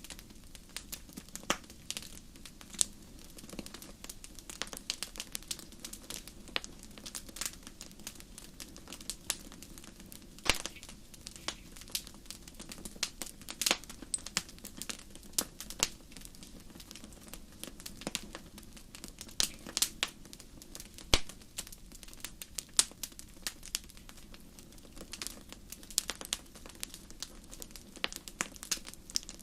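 Wood campfire burning, with irregular sharp crackles and pops over a steady low rush of flame.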